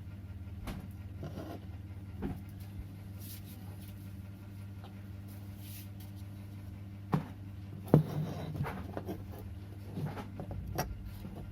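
Scattered light knocks and clicks from objects being handled, the two sharpest about seven and eight seconds in, over a steady low hum.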